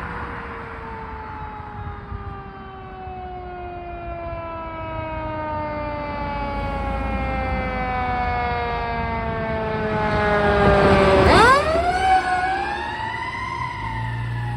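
Fire truck siren, a long wail that slides slowly down in pitch. About eleven seconds in it is loudest, dips sharply and climbs again as the truck passes close, with its engine underneath.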